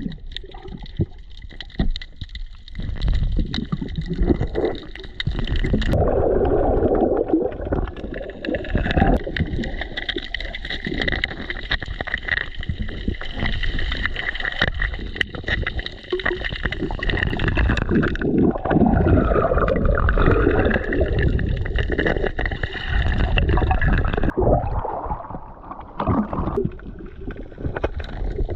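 Muffled underwater gurgling and bubbling while diving, with a steady high whine over a churning low rumble; the whine dips in pitch and comes back up about two-thirds of the way through.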